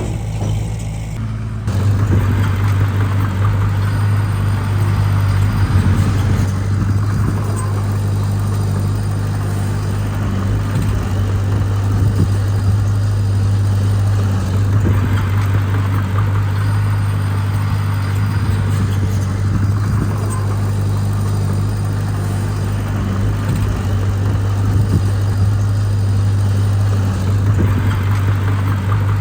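Heavy diesel engine of earthmoving machinery running under steady load, a deep continuous hum that gets louder about two seconds in.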